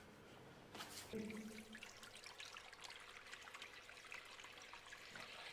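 Faint trickling of water, with small scattered clicks.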